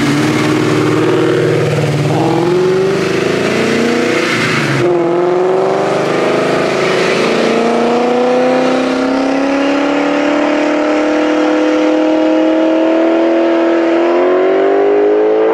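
A street-race car accelerating hard from a standing start. The engine note climbs and steps up through several gear changes in the first five seconds, then holds a long, slowly rising note as the car pulls away down the road.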